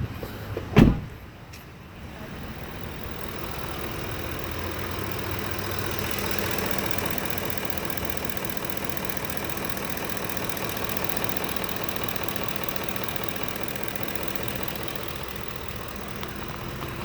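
2010 Ford F-150 engine idling, heard from outside the truck, with a fast, regular ticking that the owner cannot identify and asks whether it is normal. A single sharp thump about a second in.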